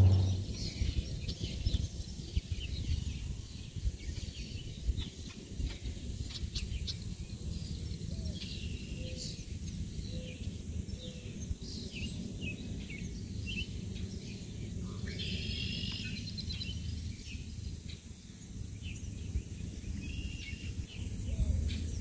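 Birds chirping and calling in short, scattered notes, with a denser run of calls about two-thirds of the way through, over a low steady rumble of outdoor noise.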